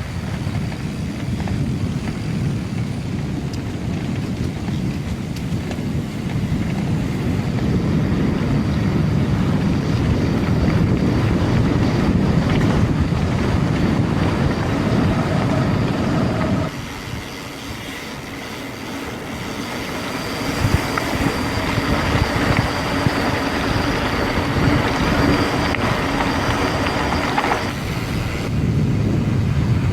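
Wind rushing over an action camera's microphone, with tyre noise, as a mountain bike rides along at speed. The rush falls off abruptly about halfway through, then builds up again with a faint high whine mixed in.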